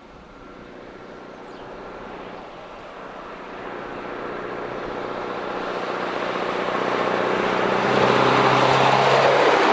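Scania R144 truck's V8 engine running through unsilenced stainless steel stack exhausts, growing steadily louder as the truck approaches, loudest near the end as it comes past.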